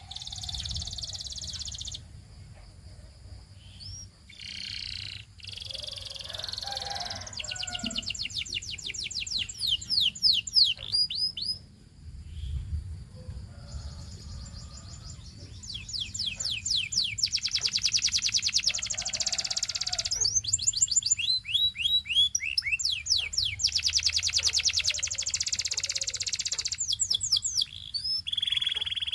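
Canary singing: a long song of rapid trills, each phrase a fast run of repeated high notes, in several tours with a short pause about halfway through.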